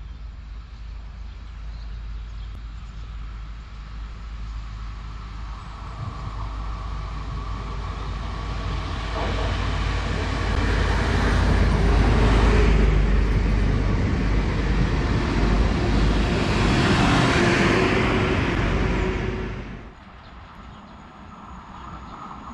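Newag Impuls 36WEh electric multiple unit running in along the platform. Its sound grows over several seconds, is loudest while the cars roll past, and cuts off suddenly near the end.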